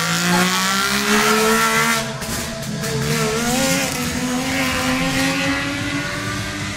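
Trabant rally car's engine revving hard as the car accelerates along the street, its pitch climbing, easing briefly about two seconds in, then carrying on and slowly fading as the car draws away.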